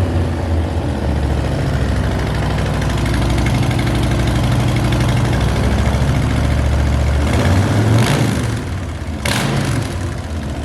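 Harley-Davidson 107 cubic inch Milwaukee-Eight V-twin running through a Vance & Hines full exhaust, idling steadily just after start-up. It swells briefly about eight seconds in, and a sharp noise follows just after nine seconds.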